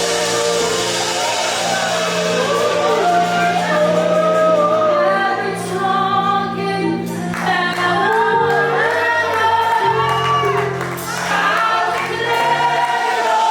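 Live worship music: singing over sustained keyboard chords and bass, with voices sliding between held notes.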